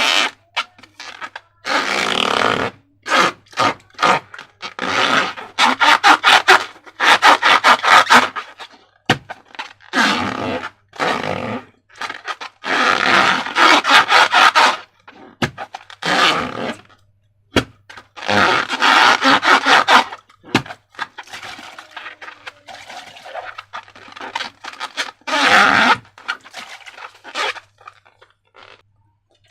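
Slime being squeezed and worked by hand, in repeated bursts of wet, crackling squelches made of rapid little pops.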